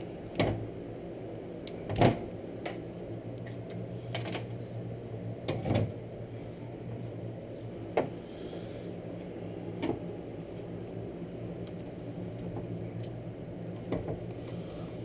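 Irregular sharp clicks and knocks, about seven, from parts and tools being handled during a pull-starter repair, the loudest about two seconds in, over a steady low hum.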